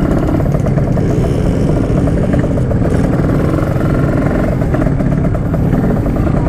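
Yamaha RX-King's two-stroke single-cylinder engine running at a steady, fairly even pitch while being ridden.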